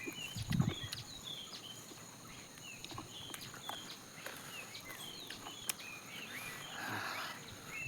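Small birds chirping repeatedly in short, quick notes, with a few faint clicks.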